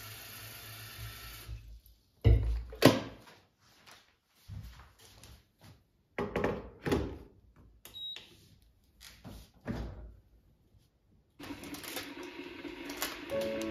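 Tap water running into an electric kettle, then a series of knocks and clatters as the kettle is handled and set down on its base, with one short electronic beep about eight seconds in. Soft music begins near the end.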